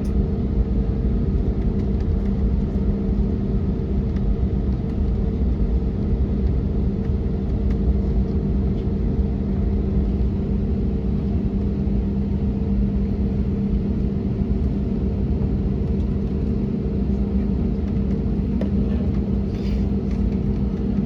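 Steady cabin drone inside an Airbus A321neoLR taxiing after landing: engine and airframe noise heard from a passenger seat, with a steady low hum running through it.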